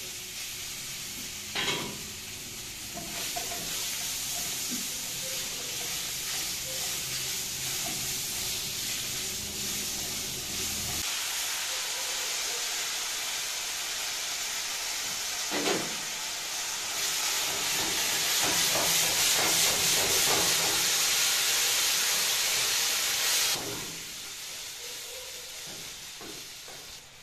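Food stir-frying in a pan over a gas burner: a steady sizzle, with a sharp knock about a second and a half in and another about sixteen seconds in. A low hum underneath stops about eleven seconds in, and the sizzle grows louder for several seconds past the middle, then drops back near the end.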